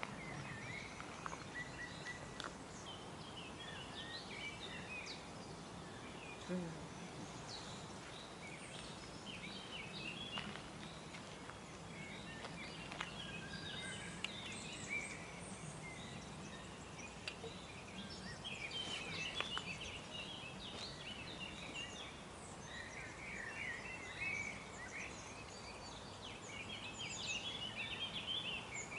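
Several birds singing and chirping, with short high trills coming and going throughout, over a steady low background hum.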